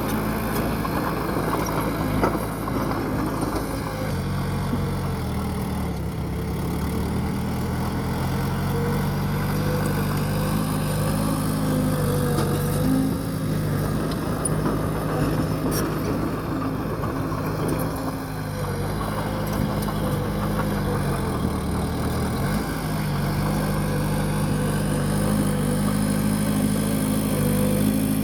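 Bulldozer's diesel engine running steadily under load. Its pitch sags twice and then picks up again as the machine works the soil.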